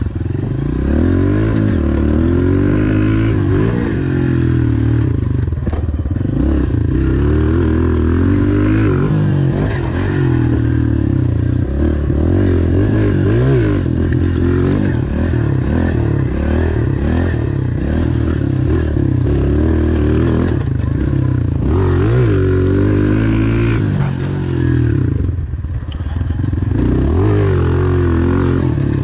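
2020 Honda CRF125F pit bike's single-cylinder four-stroke engine being ridden hard, its pitch rising and falling again and again as the throttle is opened and shut through the gears. It eases off briefly about 25 seconds in, then picks up again.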